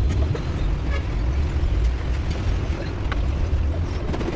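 Diesel engine of a Sany concrete mixer truck running with a steady low rumble, with a few faint clicks over it.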